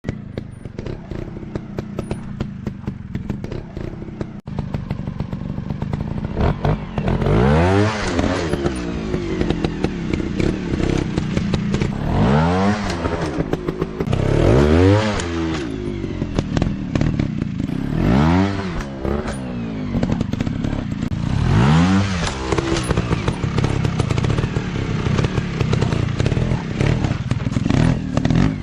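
Dirt bike engine running, revved up and let fall back again and again, with clatter and knocks of the bike over rough ground.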